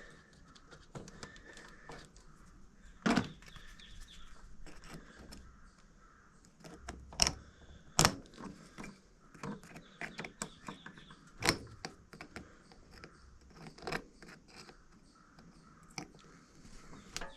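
Scattered sharp clicks and knocks with small rustles of hand work: a new inline fuel filter being pushed into the rubber fuel hose of a riding mower and its hose clamps fitted.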